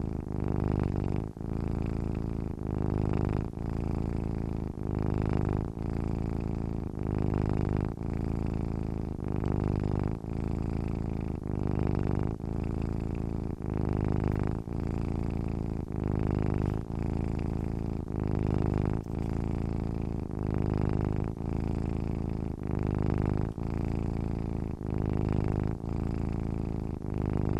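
Domestic cat purring steadily while asleep, a low rumble that swells and fades with each breath, about one breath every second and a half.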